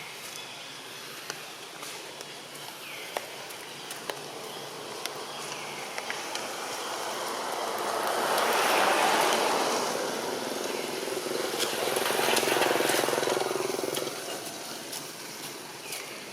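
Two motor vehicles pass by one after the other, each swelling up and fading away, the second with a faint engine hum. Short calls and light clicks are heard around them.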